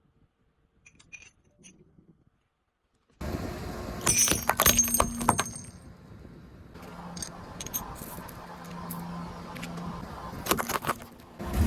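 A car tyre rolling over and crushing brittle items, crackling and snapping. It starts suddenly about three seconds in, with the loudest crunches shortly after, then a low steady hum from the car under scattered cracks.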